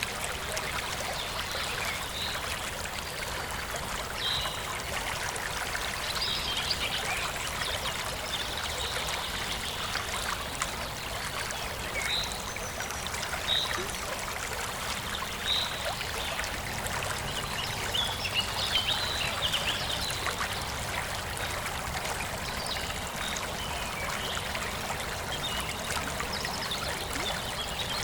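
Small forest stream flowing and trickling steadily, with short bird chirps now and then over the water.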